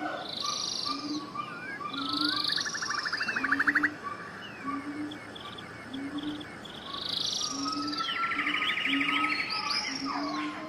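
Several birds singing together: overlapping chirps, whistled glides and fast trills. Under them a low short note repeats steadily about every 0.7 seconds.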